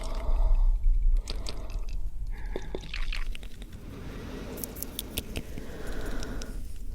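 Fast, wet mouth sounds close to the microphone: tongue and lip clicks, smacks and moist crackles in quick irregular runs, quieter and breathier for a couple of seconds in the middle.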